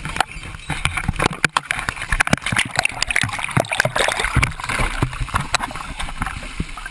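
Seawater sloshing and splashing as people move through it inside a ditched, flooding plane, with many sharp knocks and bumps throughout.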